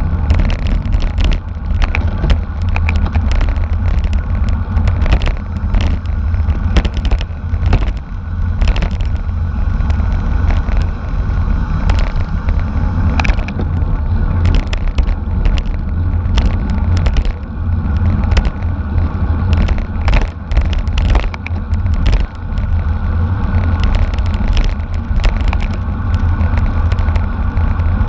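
Wind buffeting the microphone as a heavy, steady low rumble, with road noise and many scattered sharp clicks and knocks throughout.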